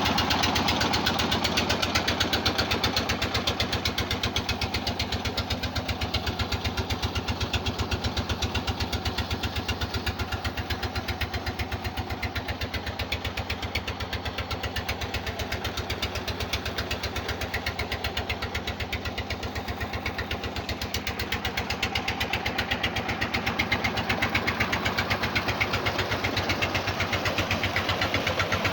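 Old 18 hp diesel engine of a tubewell running steadily, its firing strokes making a fast, even chugging that eases slightly in the middle and picks up again near the end.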